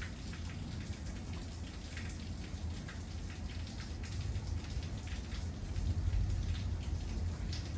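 Heavy rain falling during a thunderstorm, with many scattered drop ticks over a steady low rumble.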